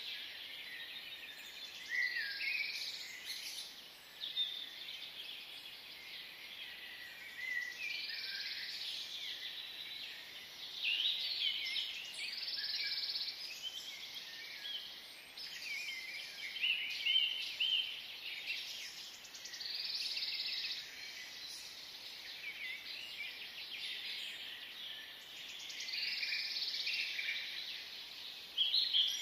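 Birds singing: a burst of chirps and trills every few seconds over a steady high hiss.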